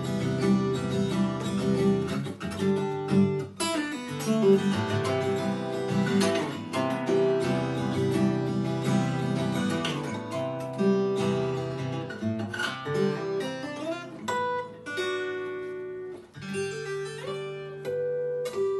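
Acoustic guitar played with the fingers: full, busy chords for most of the passage, thinning near the end to a few single notes left ringing, with a short slide in pitch.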